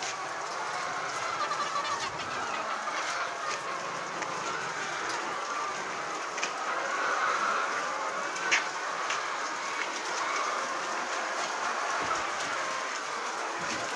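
A shed full of Sky Lark laying hens clucking and chattering together in a steady, dense din, with a few sharp clicks or knocks, one louder about eight and a half seconds in.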